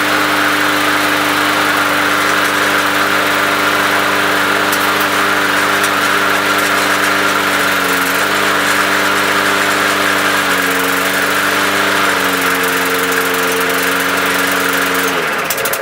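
Walk-behind lawn mower engine running steadily, left to run after clearing a clog. Its speed dips slightly a few times, and its pitch falls just before the end.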